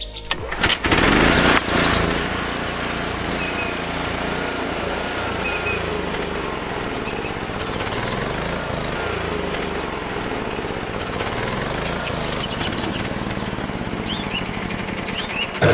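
A small motor running steadily, its pitch slowly drifting up and down, after a loud burst of noise about a second in. Faint bird chirps sound above it.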